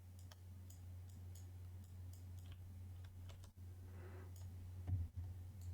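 Faint, scattered clicks of game cards and cardboard tokens being handled on a tabletop, over a steady low hum.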